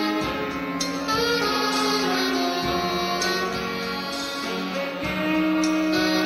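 Saxophone ensemble playing live, several saxophones holding long notes together in harmony, the chord changing every second or two.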